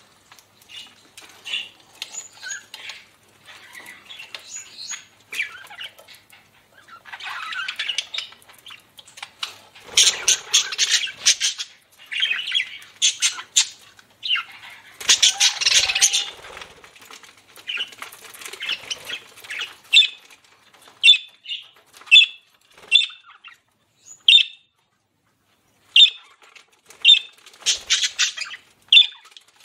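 Budgerigars chirping and chattering in irregular bursts, with squawky calls, then a run of short, sharp chirps about one a second near the end.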